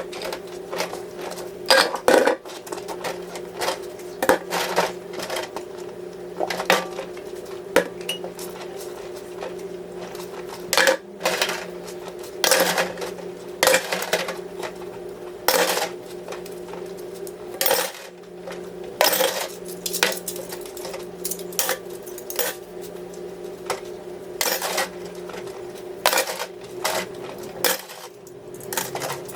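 Dishes and cutlery clattering and clinking, as in kitchen housework: irregular sharp knocks every second or two over a steady low hum.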